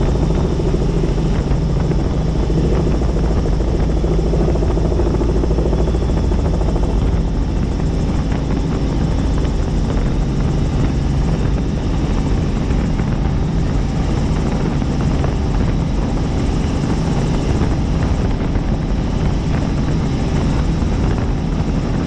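Helicopter in flight, its rotor and engine running with a steady, unbroken drone.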